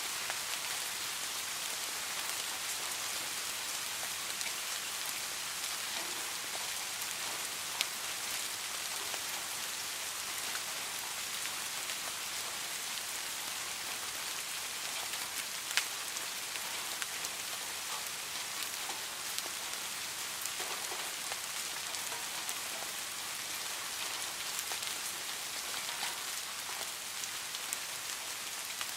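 Steady rain falling on a surface, an even hiss with individual drops ticking through it, and a couple of sharper taps about 8 and 16 seconds in.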